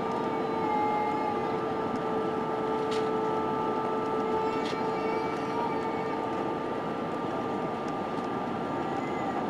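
Airbus A320-232 in flight: a steady rush of airflow and engine drone with a few constant tones held under it, and two faint clicks in the middle.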